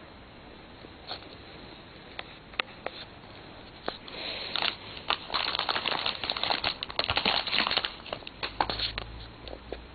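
Plastic candy wrapper crinkling as it is handled and opened: a few scattered crackles at first, then dense crinkling from about four seconds in until near the end.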